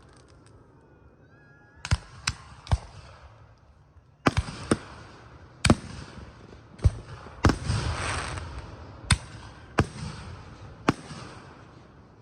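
Aerial fireworks shells bursting: about a dozen sharp bangs at irregular intervals, starting about two seconds in, several followed by a crackling fizz as the bursts trail off.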